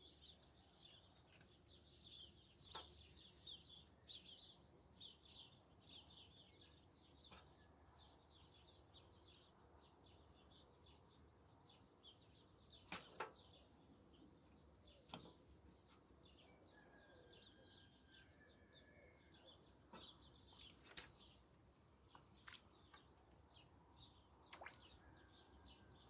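Faint songbirds chirping and twittering, with a few sharp clicks and a short whistled note partway through.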